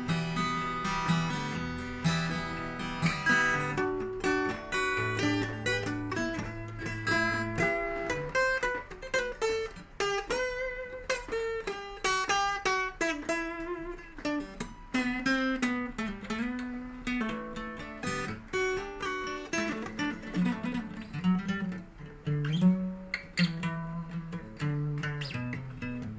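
Acoustic guitar playing an instrumental passage of an acoustic rock song: a run of picked notes over strummed chords, with no singing.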